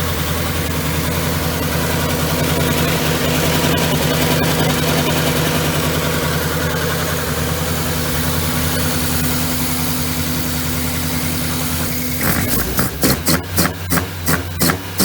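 Mazda BP-ZE four-cylinder engine, bored out to 1997 cc, idling steadily on its first fire-up. About twelve seconds in it breaks into a quick run of sharp throttle blips, roughly three a second.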